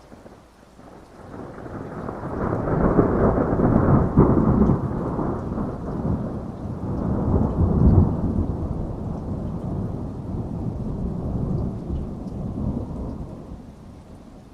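A long roll of thunder over heavy rain: the rumble swells from about a second in, peaks twice, and dies away near the end.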